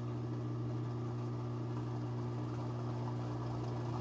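Washing machine drain pump humming steadily after the water has been pumped out, a low, even electric hum with a few higher steady tones above it.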